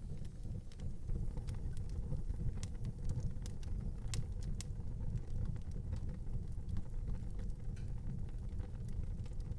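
Wood fire in an outdoor fireplace burning with a steady low rumble and scattered sharp crackles and pops, most of them in the first half.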